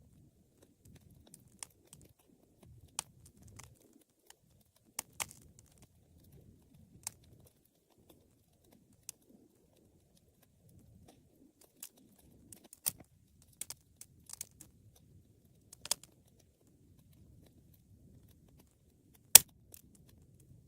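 Wood fire crackling, with irregular sharp pops and snaps over a faint low rumble of burning; the loudest pop comes near the end.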